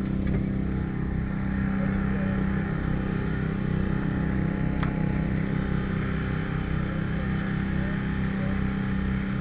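An engine running steadily at a constant speed, with a single sharp clink about five seconds in.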